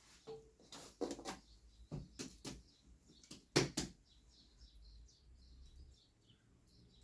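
A few knocks and clatters, the loudest about three and a half seconds in, then faint bird chirping.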